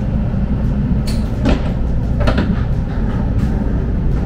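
Shinkansen train running, a steady low rumble with a few short clatters about one to two and a half seconds in.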